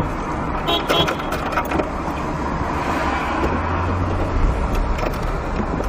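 A car's steady engine and road noise. A deeper low rumble comes in about three and a half seconds in.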